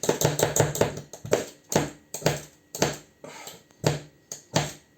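Ferrocerium fire-steel being scraped hard with a steel striker, a quick run of strokes and then about two rasping strikes a second, throwing sparks at tinder that is not catching.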